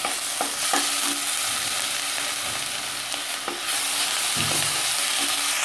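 Ginger and garlic paste sizzling in hot oil in a kadai while it is stirred with a wooden spatula, with a steady hiss and a few light knocks of the spatula against the pan.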